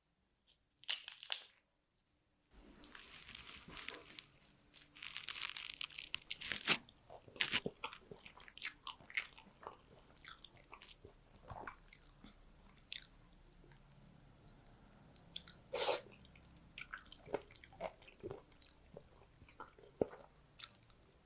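Close-miked eating: crunchy bites and wet chewing of curry, rice and raw onion, an irregular run of crisp crackles and smacks with a sharper crunch about 16 seconds in.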